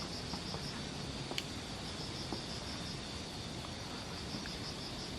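Night insects, cricket-like, chirping in a steady pulsing trill, with a single sharp click about a second and a half in.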